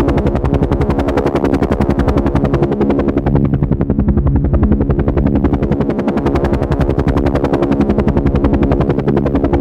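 Helicopter in flight: a rapid, steady beat of the rotor blades over a steady engine drone.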